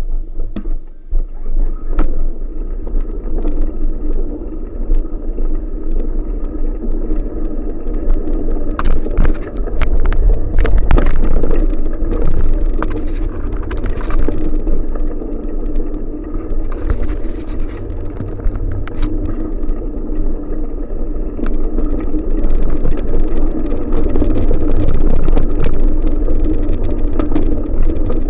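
Wind rumbling on the microphone of a moving bicycle, with the bike's tyres and frame rattling and clicking over a rough road; louder stretches about ten seconds in and again in the last third.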